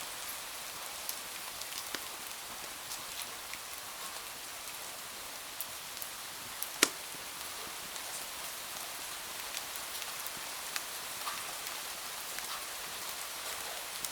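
Steady rain hiss against a window, dotted with the small sharp snaps of a crackling fireplace fire. One pop about halfway through is much louder than the rest.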